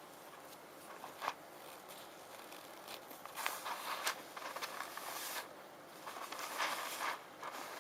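Rune stones being handled: a sharp click about a second in, then bursts of clicking and scraping as the stones are rubbed and shuffled together.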